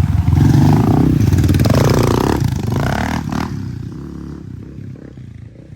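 Dirt bike engine revving hard as the bike rides past, its pitch falling as it pulls away and fades out.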